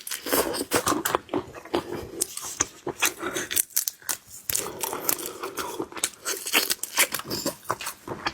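Close-miked eating of shellfish: irregular crunching, wet chewing and tearing, with crinkling and many small clicks.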